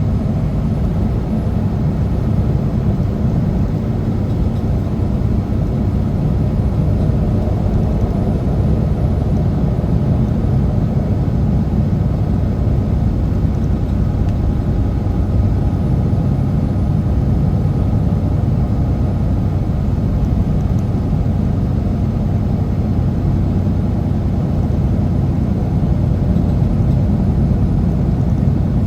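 Semi truck's diesel engine running steadily under way, a constant low drone mixed with road noise, heard from inside the cab.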